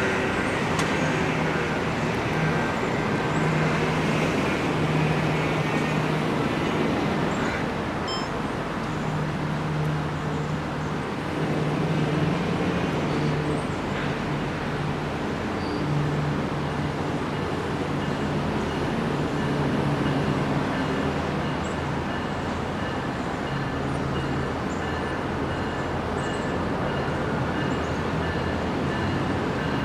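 Steady street traffic noise, with vehicles running and passing.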